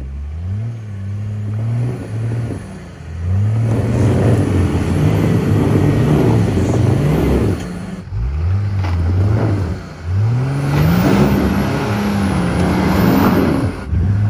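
Off-road 4x4's engine revving hard in repeated surges, its pitch climbing and falling, with brief drops about eight, ten and fourteen seconds in.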